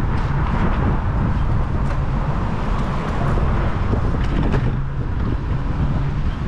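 Wind rumbling on the microphone of a moving bicycle, over the steady noise of passing city traffic.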